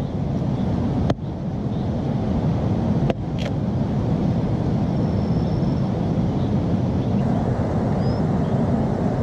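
Steady low rushing noise, with two sharp clicks, one about a second in and one about three seconds in.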